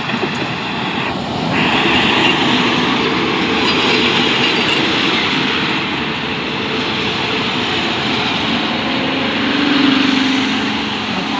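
Diesel railcar passenger train running past close alongside the platform: a steady rumble of wheels on rails that swells about two seconds in and is loudest about ten seconds in.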